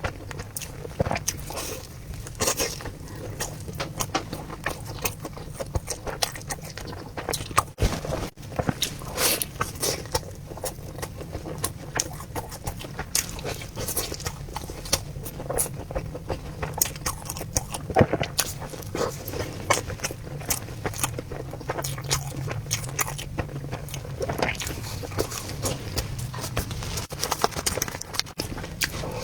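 Close-miked eating of a soft sticky-rice ball: irregular wet chewing, lip smacks and mouth clicks, over a steady low hum.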